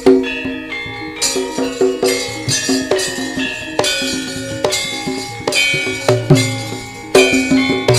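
Javanese gamelan ensemble playing a lively piece: struck metal keys and gongs ringing in a steady rhythm, with frequent sharp drum and metal-plate strokes on top.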